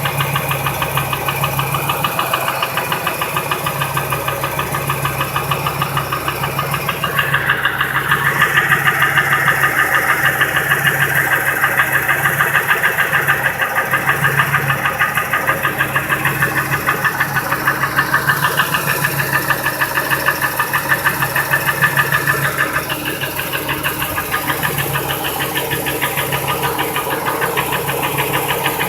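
2002 Ford F-150's 5.4-litre two-valve Triton V8 idling with a rapid, steady knock that is unaffected by unplugging any single injector or coil. It gets louder and brighter for a stretch from about a quarter of the way in, then settles back.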